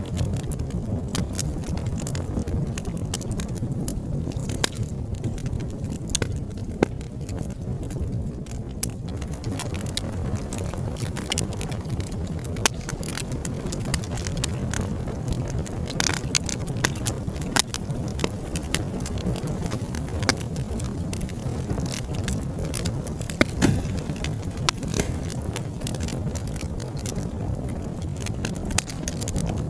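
Wood fire crackling and popping, with a steady low rumble of flames under irregular sharp snaps and a few louder pops.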